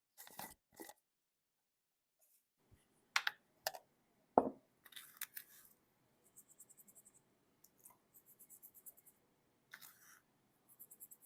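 Kitchen handling sounds while chicken is seasoned: a few sharp knocks, the loudest about four seconds in, then several short runs of fast, even clicking from a hand-turned salt or pepper grinder.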